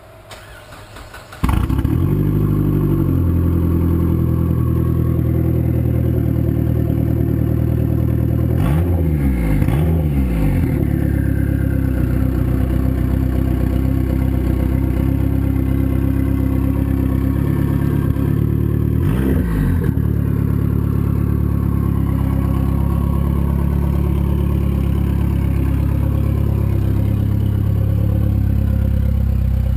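Dodge Neon SRT-4's turbocharged four-cylinder engine, coming in abruptly about a second and a half in and then idling steadily through the exhaust. It is revved briefly twice, once around nine seconds in and again around nineteen.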